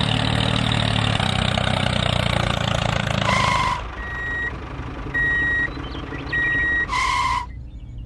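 Heavy vehicle engine sound running steadily, then a reversing alarm beeping five times, about once a second, while the engine drops away. It is a dubbed truck sound effect laid over a miniature toy tractor and mixer trailer.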